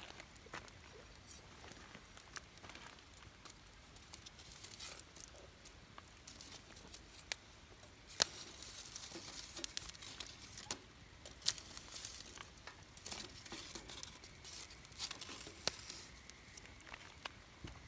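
Wood campfire crackling, with irregular sharp pops and snaps that grow busier and louder about halfway through.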